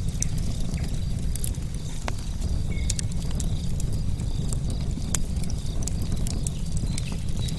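Campfire of burning logs: a steady low rumble of flames with frequent irregular crackles and pops of the wood. Crickets chirp faintly and steadily behind it.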